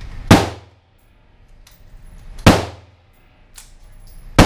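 Three rifle shots about two seconds apart, each sharp crack echoing briefly off the concrete booths of an indoor range.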